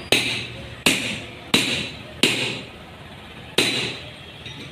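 Hammer blows tapping a new input-shaft bearing into place on a Maruti Swift Dzire gearbox: four sharp metallic strikes about two-thirds of a second apart, then one more after a pause.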